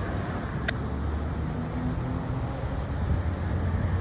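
A vehicle engine's low, steady rumble with road and wind noise, and a single short click about two-thirds of a second in.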